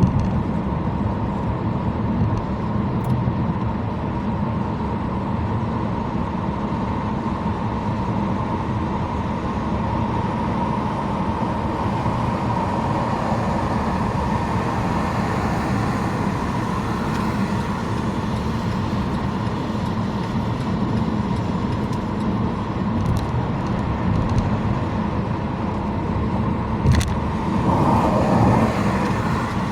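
Steady road and tyre noise of a car driving at speed, with a steady hum underneath. Near the end there is a sharp click, then a brief louder swell.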